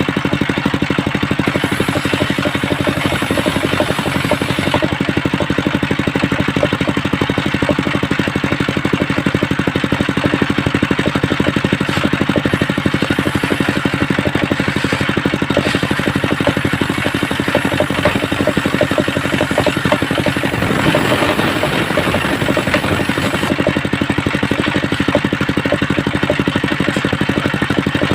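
Homemade circular saw rig running steadily with a fast, even engine-like pulse while sawing waru wood. The sound shifts briefly about twenty seconds in.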